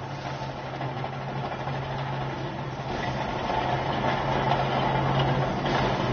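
Heavy bulldozer engine running steadily with a low hum, growing gradually louder.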